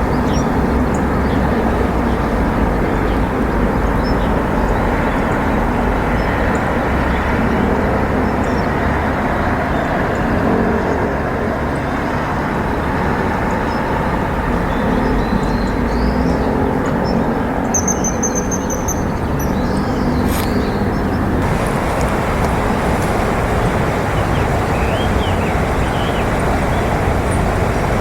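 Steady outdoor background rumble, with a few faint high bird chirps now and then and a single sharp click about twenty seconds in.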